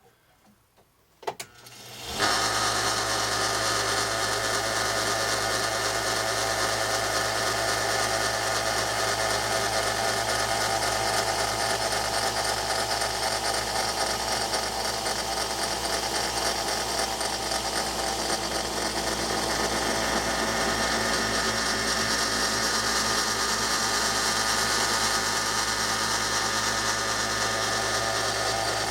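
Wilton belt sander starting up about two seconds in, after a click, and then running steadily with a leather stropping belt loaded with green polishing compound, as a knife edge is honed on it.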